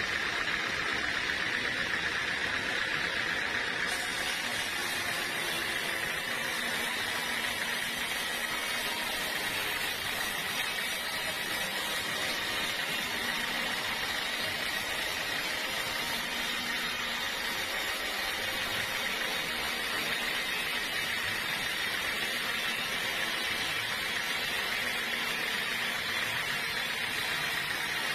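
Sawmill saw running: a steady, even whirring hiss with no knocks or breaks.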